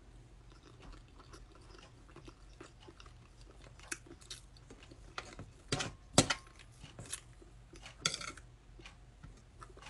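Close-up eating sounds: a woman chewing a mouthful of sardines, with short clicks and smacks of her mouth and of the fork and spoon on the plate. The sounds come scattered, most of them in the middle of the stretch.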